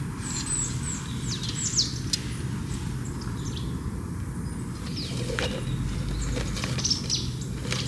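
Small birds chirping with short, quickly falling high calls, a cluster in the first two seconds and a few more later, over a steady low background noise.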